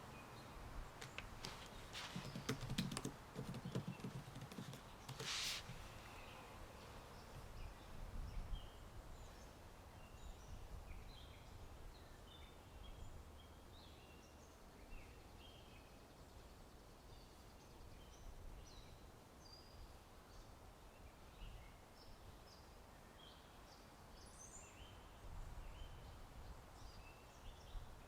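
Faint computer-keyboard typing, a quick run of key clicks in the first few seconds, followed by a brief noisy swish. Birds chirp in many short calls throughout, over a low outdoor rumble.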